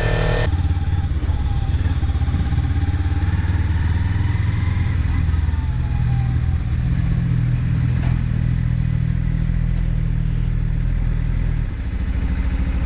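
Motorcycle engine running steadily at low revs, its note changing slightly near the end.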